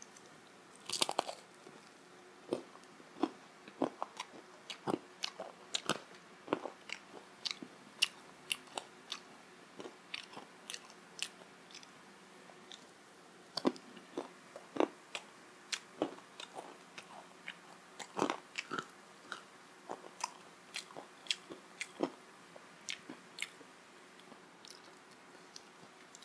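Close-miked mouth sounds of a person eating a deep-fried syaphale, a meat-filled fried bread: crisp crunching bites and wet chewing in irregular clicks. The loudest crunch comes about a second in and another cluster around two-thirds through, with the eating thinning out near the end.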